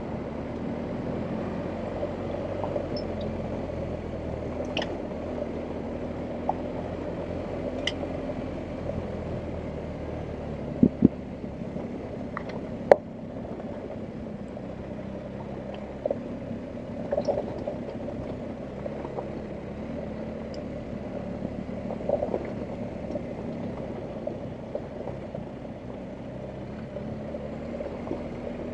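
BMW R1250GS Adventure's boxer twin engine running steadily at low revs on an off-road track. Occasional sharp knocks from the bike over rough ground, the loudest a pair about eleven seconds in and a single one about thirteen seconds in.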